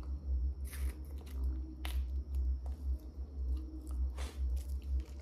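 A person biting and chewing a frozen homemade ice pop in a plastic bag, with a few short sharp crackles.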